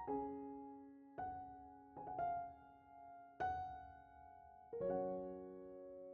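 Slow, soft piano music: single notes struck a second or so apart, each ringing and fading, then a fuller chord near the end that rings out.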